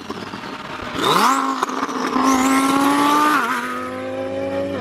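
Twin-turbo Lamborghini Huracan Performante's V10 engine revving up sharply about a second in and holding high revs. Its pitch drops suddenly near three and a half seconds and then slowly climbs again. A high rising whistle sounds above the engine note.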